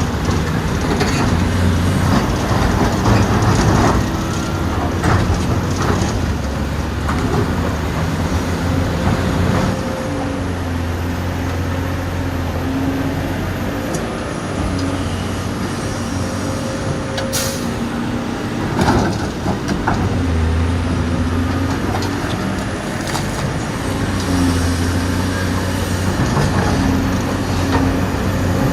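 Dubbed-in sound of a real excavator's diesel engine running steadily, its note swelling and easing every few seconds as if working under load, with scattered clicks and knocks and one sharp crack a little past halfway.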